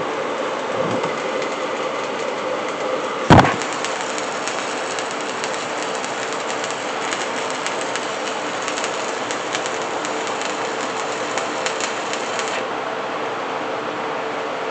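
Welding-shop din with a steady machine hum throughout. A single loud metallic bang comes about three seconds in, and a crackling hiss cuts off suddenly near the end.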